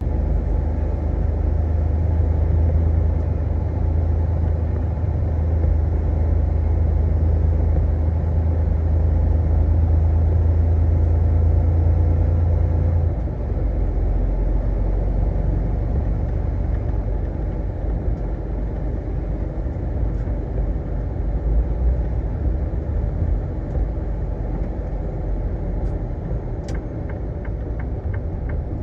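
Semi-truck diesel engine running under way, a steady low rumble; its deep drone drops lower about halfway through.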